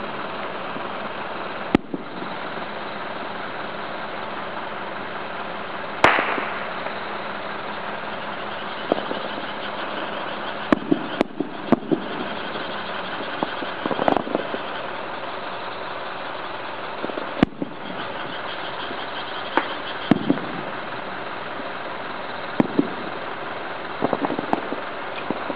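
Aerial firework shells bursting: sharp bangs at irregular intervals, about a dozen, some in quick clusters, the loudest about six seconds in with a short tail, over a steady background noise.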